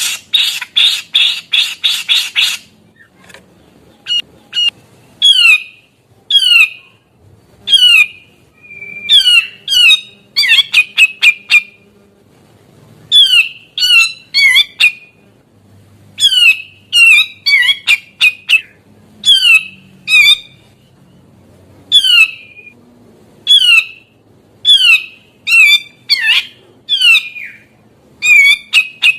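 Grey-cheeked bulbul (cucak jenggot) calling. It opens with a rapid buzzy rattle, then gives sharp, steeply down-slurred notes in quick groups about once a second, with a few fast trills between them.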